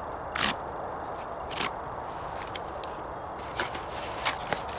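A few short, dry rustles and crackles, about five of them spread unevenly over a few seconds.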